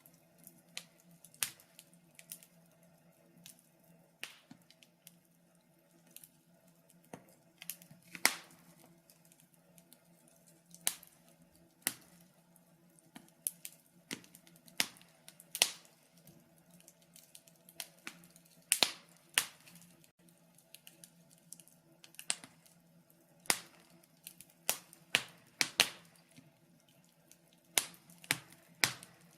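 Wood fire crackling: sharp, irregular pops and snaps from the burning logs, some in quick clusters, over a faint steady low hum.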